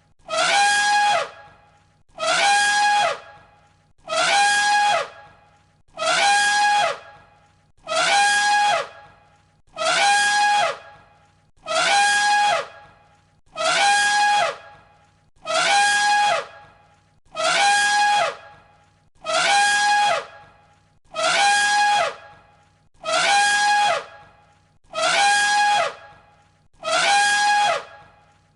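Elephant trumpet call repeated on a loop, one short call about every two seconds. Each call starts high, slides down and then holds one note before cutting off.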